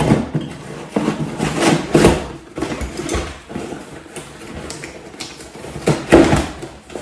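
Packaging being handled while parts are taken out of a box: rustling and several short knocks and scrapes, the loudest a cluster about six seconds in.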